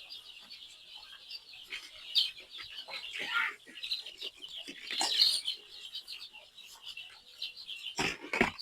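A flock of young chicks peeping continuously with high, dense chirps while crowding round their drinkers, with a couple of brief knocks near the end.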